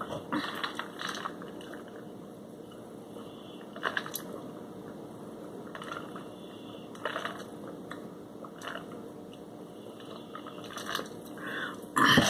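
Close-up eating sounds: chewing fried shrimp and crinkle-cut fries, with short wet clicks and crunches every few seconds, and sips from a plastic cup partway through. A louder mouth sound comes near the end.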